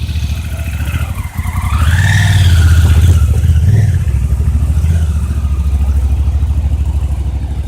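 Motorcycle engine running with a fast, even firing rhythm, revved up about two seconds in and easing back to a steady run.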